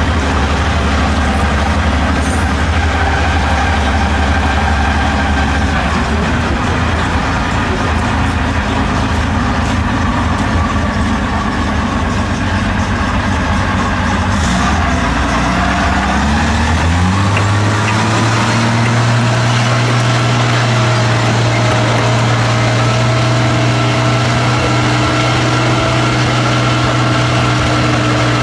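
Tiger tank's V12 petrol engine running at a steady idle, then about two-thirds of the way through its speed rises over a second or so to a higher steady fast idle, which it holds.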